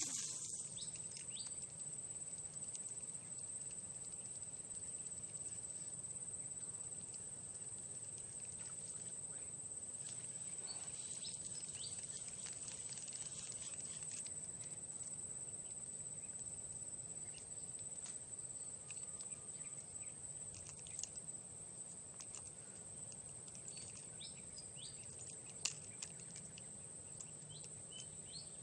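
Steady high-pitched insect drone, with a few faint clicks and ticks scattered through it.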